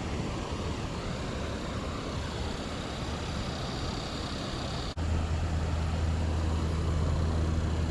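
Steady rush of water from the creek's falls. About five seconds in, after a brief dropout, a steady low hum joins it.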